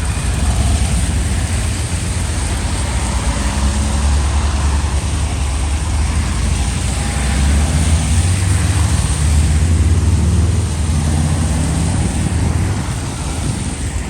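Street traffic passing close by: a vehicle engine's low rumble swells through the middle and eases near the end, over a steady hiss.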